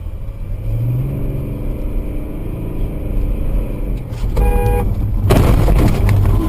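Car engine and road rumble from a dashcam. A short car horn beep sounds about four and a half seconds in, followed by a loud rush of noise lasting under a second.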